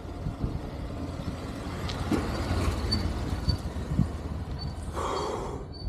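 Wind rumbling on the microphone of a moving rider, steady throughout, with a short louder rush about five seconds in.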